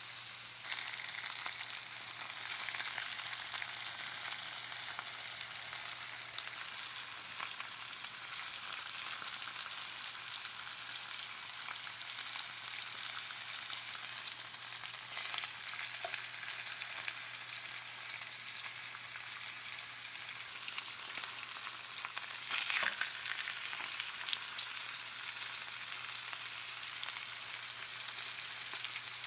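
Chicken thighs frying in a pan: a steady sizzle with small crackles. It flares up louder for a moment about 23 seconds in.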